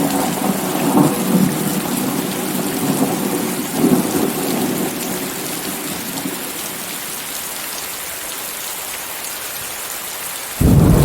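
Steady heavy rain hiss mixed with white noise, with rolling thunder rumbling through the first half and dying away. A sudden, loud, low thunder rumble breaks in just before the end.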